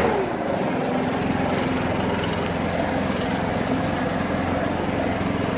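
Small lawn-equipment engine running steadily at a constant pitch, just after a louder engine note drops away at the very start.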